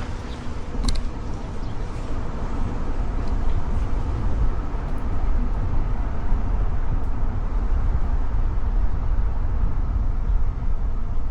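Car driving along a road: a steady low rumble of road and tyre noise that grows a little louder over the first few seconds, with a couple of faint clicks about a second in.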